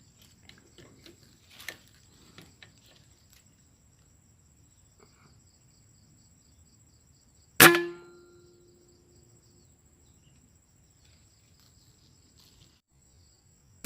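An air rifle shot a little past halfway through, a single sharp crack with a short ringing tone that dies away, over a steady high-pitched buzz of insects.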